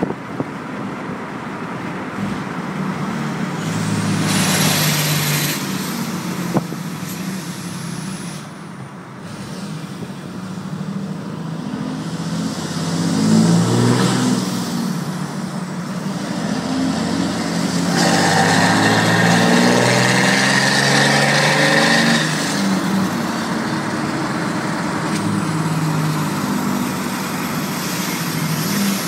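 6.7-litre Cummins inline-six turbodiesel running through a 5-inch straight-pipe exhaust, pulling hard several times with the engine note rising and falling between gears. A high whistle rises over the heavier pulls.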